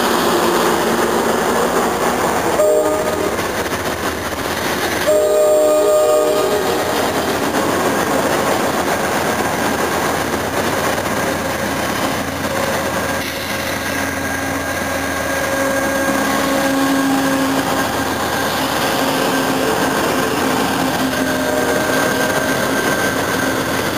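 Amtrak passenger cars rolling past with a steady rumble of wheels on rail. A train horn sounds briefly about three seconds in, then again for about a second a couple of seconds later.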